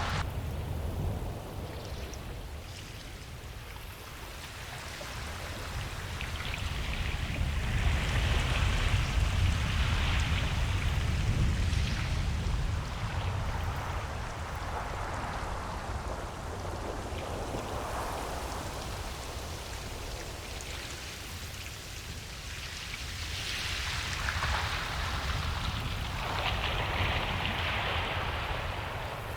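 Ocean waves breaking and washing up a beach, the hiss of surf swelling and fading slowly, loudest about a third of the way in and again near the end, over a steady low rumble.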